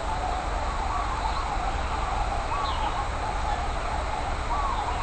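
A few short, faint bird calls scattered over a steady background hiss.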